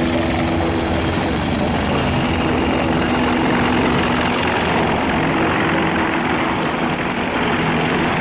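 Helicopter running steadily overhead, a loud, even rotor and engine noise with a constant high whine.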